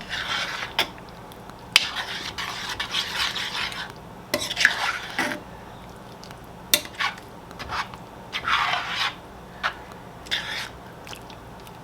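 A spoon stirring thick chili in a cast iron pot, scraping around the bottom in several separate strokes, with a few sharp knocks of the spoon against the pot.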